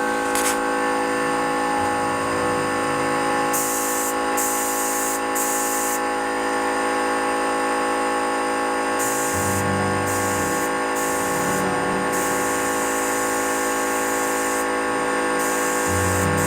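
Electric paint spray gun running with a steady motor hum while spraying white paint, the spray hiss cutting in and out in several bursts as the trigger is pulled and released.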